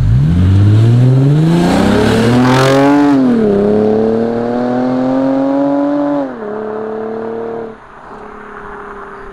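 Lexus IS350's 3.5-litre V6 with a muffler-delete exhaust, the car accelerating hard. The engine pitch rises steeply, drops with an upshift about three seconds in, climbs again, and drops with a second shift about six seconds in. It then holds steady and falls to a quieter, lower note near the end.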